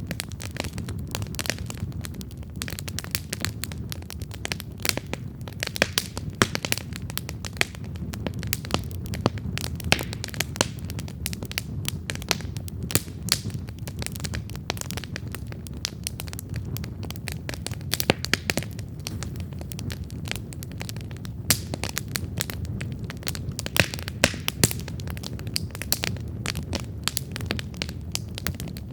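Wood campfire burning: a steady low rumble of flames with frequent, irregular sharp crackles and pops from the burning wood.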